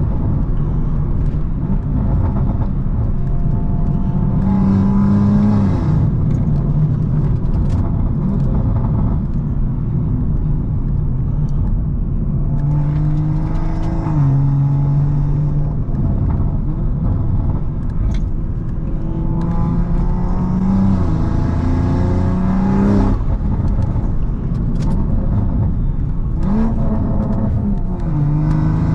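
BMW M340i's tuned turbocharged 3.0-litre inline-six accelerating hard through the gears: the engine note climbs and then drops suddenly at each upshift, several times over, with a hiss of intake and turbo noise during the pulls.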